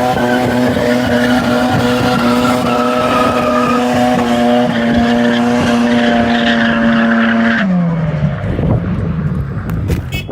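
Car engine held at a steady high rpm while the tyres squeal, as in a burnout. Near the end the engine is let off and its pitch drops away.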